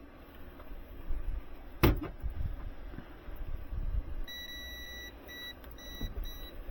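A sharp click about two seconds in, then an electrical meter beeping: one longer high beep followed by three short ones, over low handling noise.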